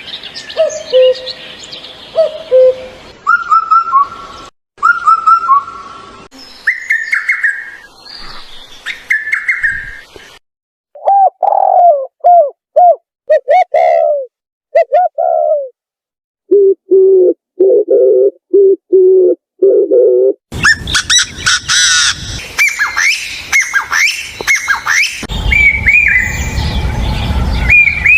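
A run of different wild birds' calls cut one after another with short silent gaps: clear whistled phrases first, then a series of lower, evenly repeated notes, and in the last third dense overlapping chirping from several birds.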